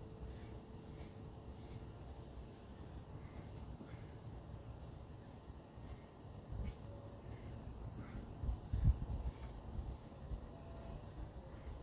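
A bird giving short, high chirps, about one a second and sometimes in quick pairs, over a low rumble.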